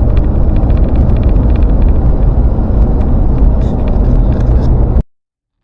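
Steady, loud road rumble from a vehicle moving at highway speed, heard from inside the cabin. It cuts off abruptly about five seconds in.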